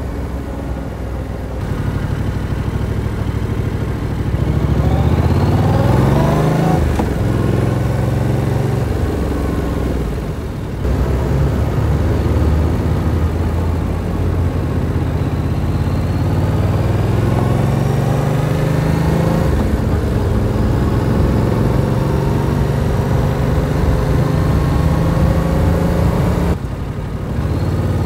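Motorcycle engine running under way, its revs climbing twice. The engine note dips briefly about ten seconds in and again near the end, as when the throttle is closed.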